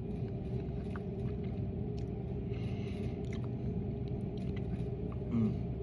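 A person chewing a mouthful of rice, taco meat, chili and coleslaw, with faint small clicks of the mouth. A steady low rumble runs underneath.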